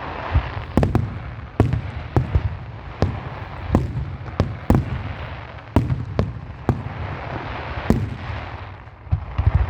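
Fireworks display: shells bursting in a rapid, uneven series of sharp bangs, about one or two a second, over a continuous hiss.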